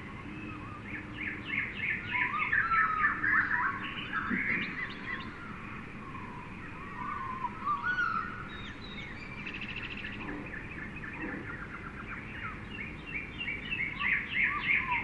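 Jungle ambience: many birds chirping and calling at once in quick, overlapping trills and whistles, busiest about a second in and again near the end.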